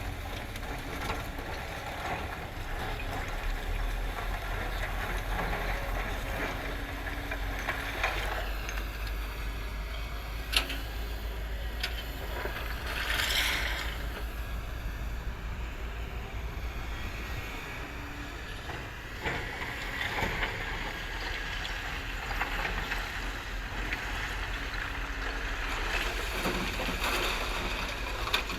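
Diesel engines of heavy machinery, an excavator working with a truck, running steadily with a low rumble. There is a single sharp clank about ten seconds in and a brief rushing noise a few seconds later.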